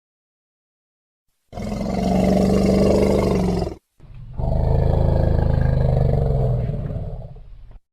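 A large wild animal giving two long, loud roaring calls, the first about two seconds long and the second nearly four, with a brief break between them.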